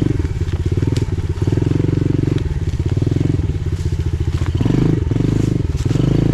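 Pit bike engine running at low revs as it rides down a steep wooded slope, with the revs rising and falling in short throttle blips in the second half. A few sharp cracks are heard over it.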